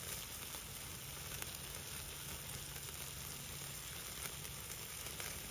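Food sizzling over a wood fire on a camp grill, with asparagus frying in butter in a skillet and sausages on the grate. Frequent small pops and crackles run through the steady sizzle.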